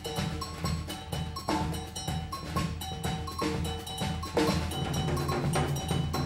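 Percussion music: a quick run of drum and wood-block strikes with short pitched notes over them.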